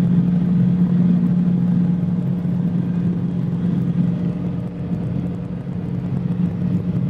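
Cabri G2 helicopter, a Lycoming four-cylinder piston engine with rotors, droning steadily while hovering low before touchdown, heard inside the cockpit through the headset intercom. The drone holds one steady pitch and eases off slightly in loudness about halfway through.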